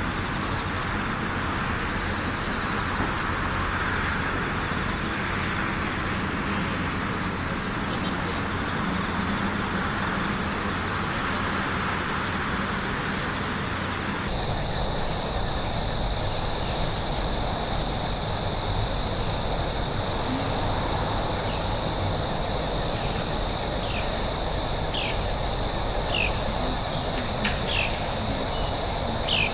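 Outdoor ambience of insects droning steadily at a high pitch, with short falling bird chirps scattered through. About halfway there is an abrupt cut to a lower-pitched insect drone.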